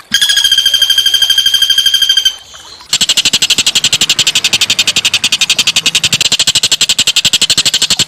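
Small songbird giving rough, rapid trills: a fast pulsing trill at one steady pitch for about two seconds, a short break, then a denser, higher buzzy trill that carries on to the end.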